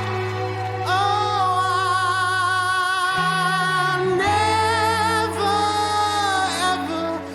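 A singer holds two long wordless notes with vibrato over sustained low accompaniment, in a slow ballad.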